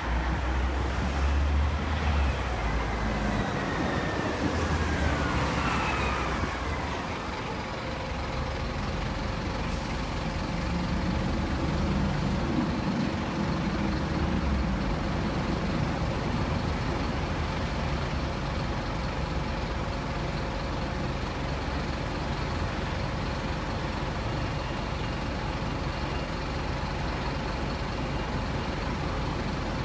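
Scania N230UB city bus's diesel engine running steadily, with a whine that falls in pitch between about two and seven seconds in.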